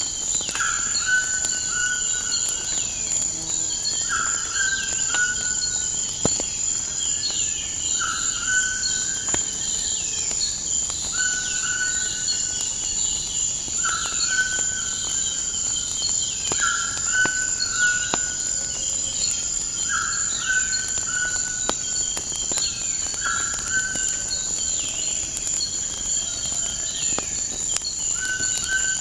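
Night nature ambience layered with a fire. Insects trill steadily at a high pitch, and a bird gives a short call about every two seconds. Scattered small crackles of burning wood sound throughout.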